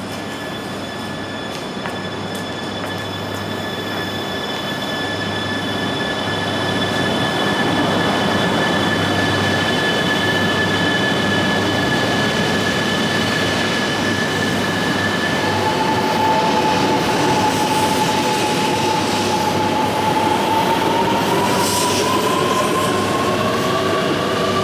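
E3 series 2000 Shinkansen train pulling out and accelerating, its running noise growing louder over the first several seconds. Steady high tones sound throughout. Past halfway a further whine sets in and then rises in pitch as the train picks up speed.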